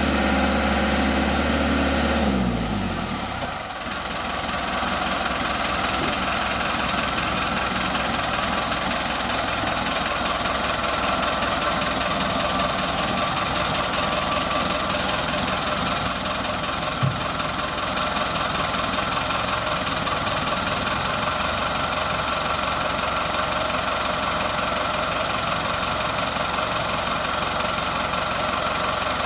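A low mechanical drone that falls in pitch and dies away about three seconds in, then a steady rumbling run of a train with a faint high whine. One short knock about 17 seconds in.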